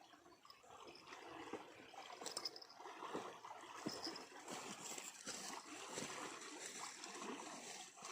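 Water trickling and splashing, with irregular small splashes, getting louder about a second in.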